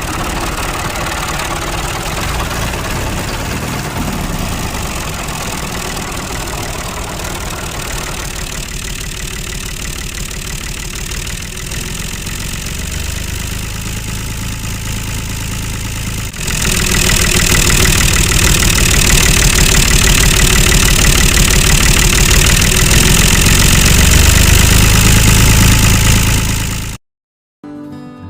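An engine running steadily, stepping up suddenly to a louder, fuller sound about two-thirds of the way through, then cutting off abruptly near the end.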